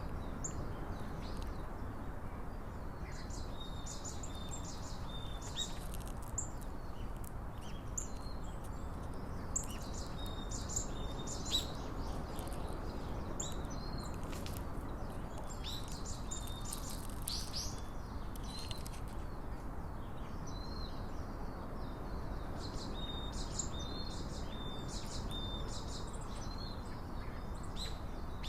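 Small wild birds chirping and calling throughout: many short, high chirps, with a few brief steady whistled notes, over a constant low background rush.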